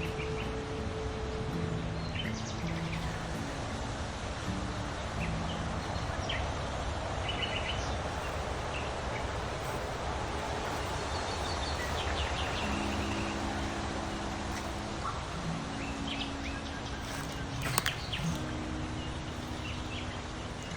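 Small birds chirping now and then over a steady outdoor hiss, with soft background music of long held chords underneath. There is one sharp click near the end.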